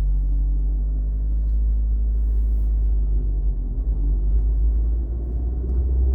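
Car engine revved while standing still, held at raised revs with a deep, steady rumble, easing off briefly about five seconds in.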